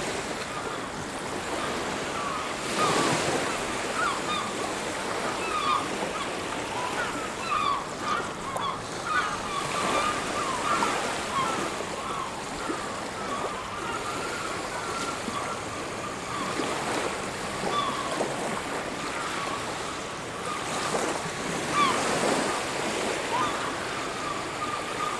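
Sea surf breaking and washing up a beach, swelling now and then, with a constant chatter of many short bird calls over it.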